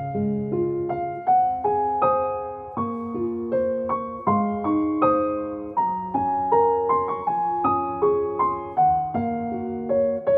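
Slow, gentle solo piano music: single notes struck one after another over held low chords, each note fading after it is played.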